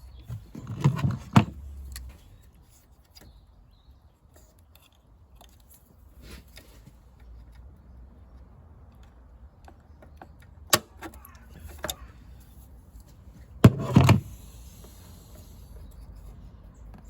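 Scattered clicks and knocks of parts being handled by hand in a car's engine bay, as a retaining clip is worked off. There are a few sharp taps about a second in, single clicks later on, and the loudest pair of knocks about three-quarters of the way through.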